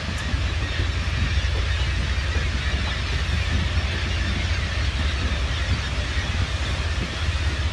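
Steady low engine drone with a constant hiss over it, the kind a tour boat's motor and the wind make while underway. No single bird call stands out.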